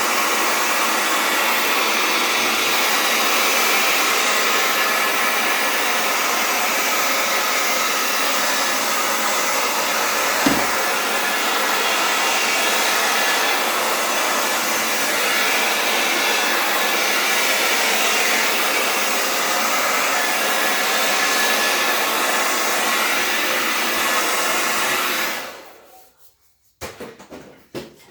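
Hair dryer running steadily at full blast, then switched off near the end, followed by a few light knocks.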